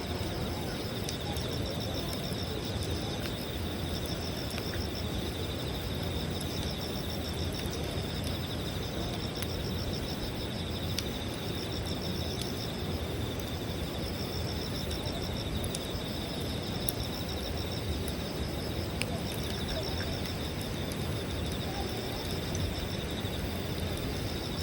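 Wood campfire burning with scattered small crackles and pops, over a steady, high, pulsing chirp of insects.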